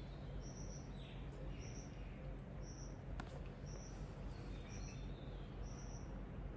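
A short, high-pitched chirp, like a small bird's call, repeating evenly about once a second over a steady low hum, with one sharp tick about three seconds in.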